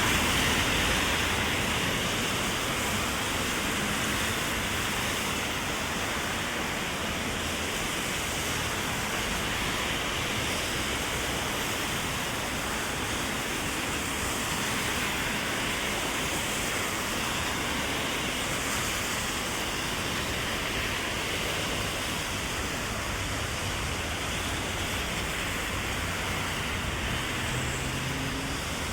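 Heavy rain falling steadily on an umbrella and on the wet street, a dense, even hiss.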